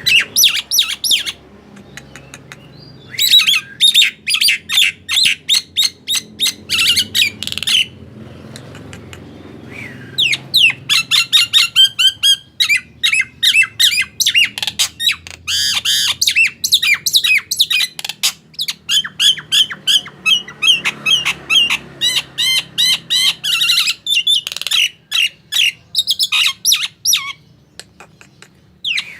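Nias hill myna calling in loud, rapid strings of high-pitched squawks and whistled notes, in bouts with a short pause about 8 seconds in.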